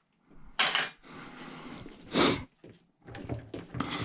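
Pieces of scrap metal clanking twice, about a second and a half apart, as they are handled and tossed into a bucket.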